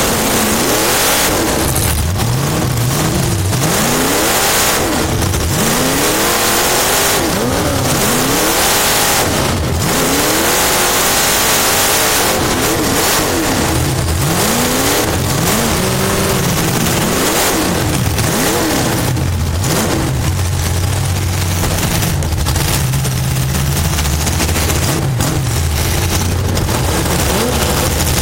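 Race car engine heard from inside the car, its pitch rising and falling every second or two as the throttle goes on and off, over loud, steady wind and road noise. In the last third the engine holds a lower, steadier note.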